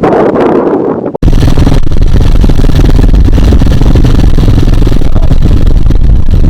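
Wind buffeting the microphone. About a second in, an abrupt cut leads to a loud, steady low rumble of a Hawk 250 dirt bike's engine running, mixed with wind noise.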